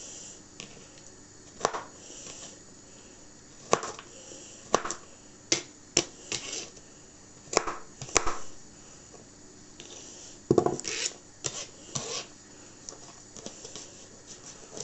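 Knife chopping vegetables on a cutting board: irregular single knocks, sometimes two or three close together, with pauses of a second or two between.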